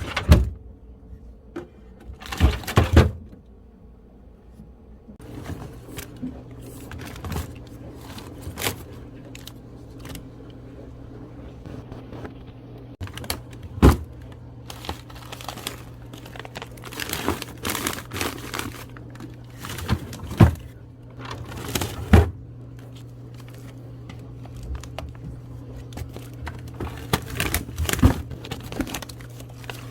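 Household items being handled: scattered knocks and clacks of containers with plastic crinkling, over a steady low hum that starts about five seconds in.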